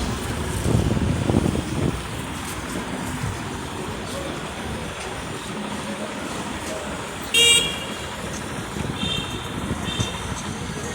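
Street traffic noise with one short, loud, high-pitched horn toot about seven seconds in, followed by two fainter short beeps.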